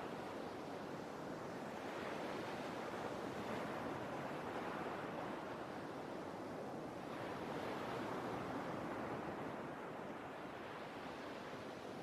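Sea waves washing onto a shore in a steady hiss, swelling and falling back slowly, with surges about three seconds and again about seven seconds in.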